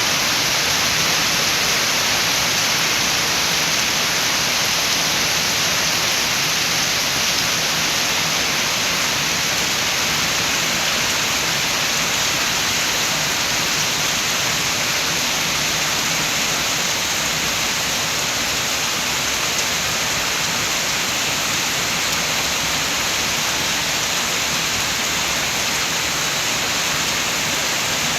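Steady rain with wind, a dense even hiss with no single drops or gusts standing out.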